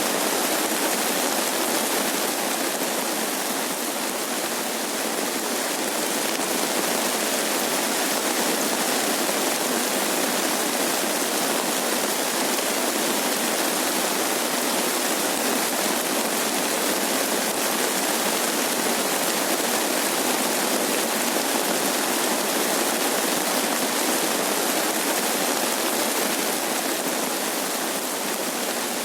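Steady rain falling over paddy fields, a dense even hiss of drops without pauses or thunder.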